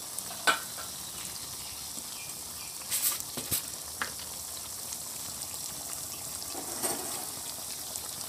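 Chicken and potato curry sizzling steadily in a metal kadai as it fries down in its masala. A few sharp knocks of a metal spoon against the pan come about half a second in and again around three to four seconds in.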